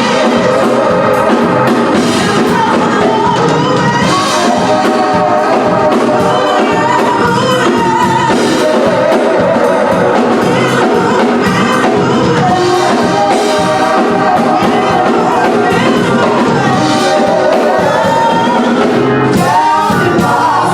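Gospel song: singing over full instrumental accompaniment, played continuously at a steady level.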